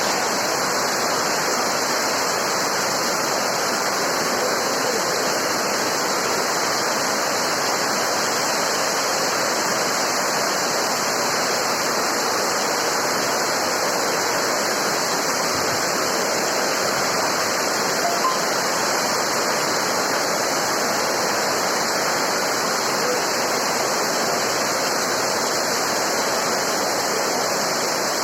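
Heavy rain pouring down in a windstorm: a loud, steady rush of noise that doesn't let up.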